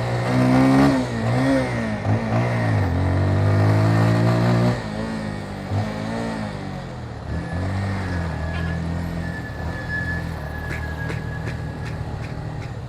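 Motorcycle engine revving up and dropping back several times as the rider accelerates through the gears, then running steadier at lower revs. A few sharp clicks come near the end.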